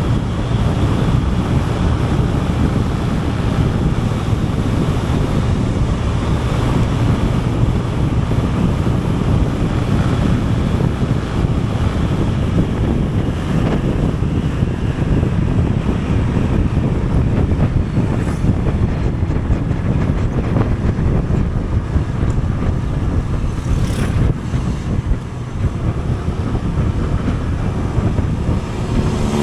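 Steady wind rushing over the microphone of a camera on a moving vehicle, with deep vehicle and road noise beneath. There are brief sharp noises about 18 and 24 seconds in.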